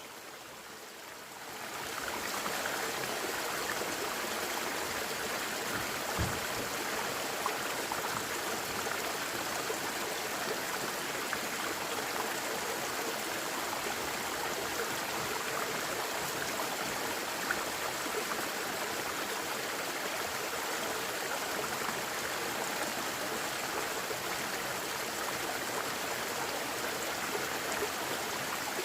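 Mountain valley stream flowing: a steady rush of running water that fades in over the first two seconds.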